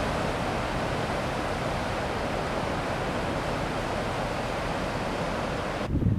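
A steady, even rushing noise that breaks off abruptly near the end, giving way to louder, uneven low rumbling of wind on the microphone.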